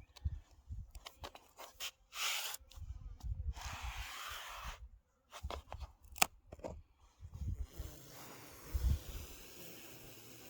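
Irregular handling noises, rustling, scraping and knocking, with low thumps, for the first eight seconds or so, then a faint steady hiss.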